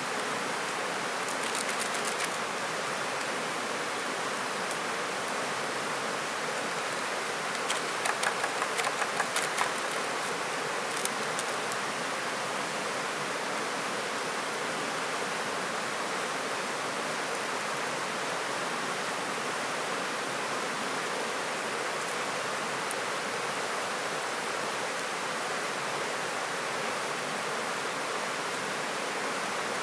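Steady rushing of a flowing river or stream. A short run of sharp clicks comes about two seconds in, and a quick cluster of them comes around eight to ten seconds.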